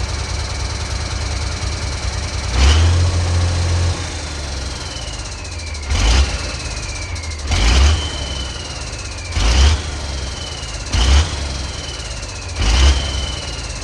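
Ford D series 1314 truck's turbocharged engine idling, then revved in six short throttle blips about every one and a half to two seconds. After each blip a falling whistle is heard as the turbocharger spools down.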